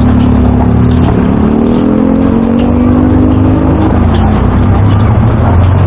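Busy street traffic with a low engine rumble. About a second and a half in, a nearby vehicle's engine climbs steadily in pitch as it accelerates, then drops away about four seconds in.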